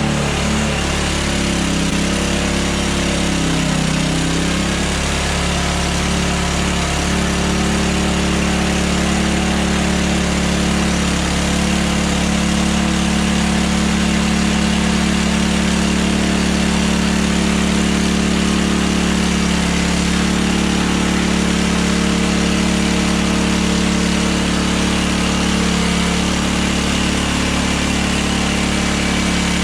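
Hudson Hunter band sawmill's engine running steadily under load as the band blade cuts through a log. Its pitch dips and recovers in the first few seconds.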